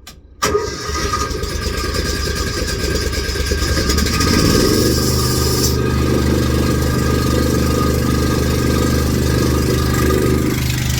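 Air compressor starting up and running steadily with a low, even pulsing, pumping up its air tank and the tyre bead-seater (cheater) tank. A high hiss of air runs over it and stops about halfway through.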